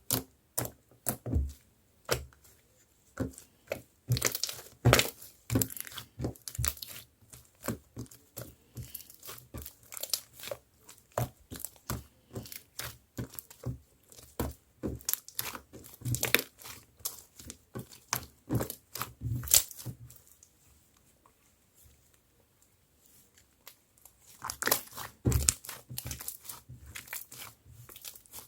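Thick marbled slime being squished, folded and stretched by hand, making irregular sticky clicks and crackling pops, with a pause of a few seconds about two-thirds of the way in.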